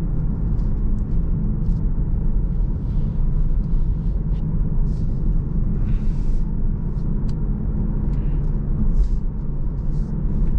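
Steady low road and engine rumble of a car being driven, heard from inside the cabin, with a few faint ticks and rattles.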